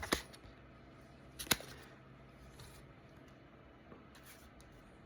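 Pokémon trading cards being handled: two sharp flicks, one at the start and one about a second and a half in, then a few faint ticks of card against card in a quiet room.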